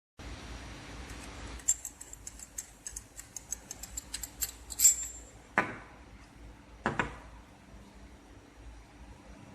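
Small metal parts of a filling-machine nozzle clinking and tapping as it is taken apart by hand: a quick run of light ringing clicks, then two louder knocks.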